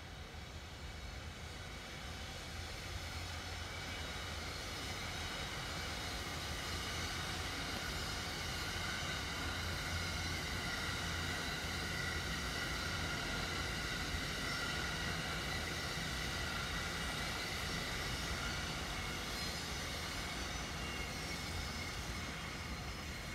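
E001 series Train Suite Shiki-shima passing: a steady running sound with a high whine, growing louder over the first ten seconds or so and easing off a little near the end as the train goes by.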